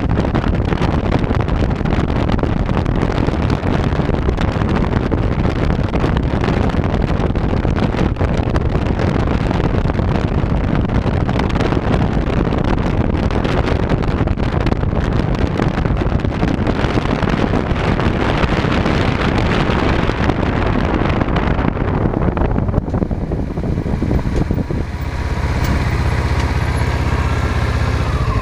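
Motorcycle riding at speed with heavy wind rush over a chest-mounted camera's microphone; a little over three-quarters of the way through the wind dies away as the bike slows, and the engine settles to a steady idle.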